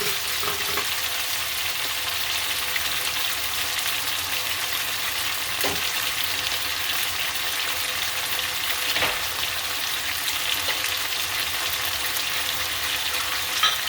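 Chicken thighs browning in oil with onion and garlic in a pan, sizzling steadily. Two light knocks come about six and nine seconds in.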